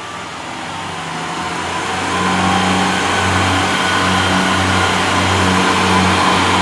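Class 143 Pacer diesel multiple unit's engines powering up as the train pulls away. The hum grows louder from about two seconds in and then holds steady.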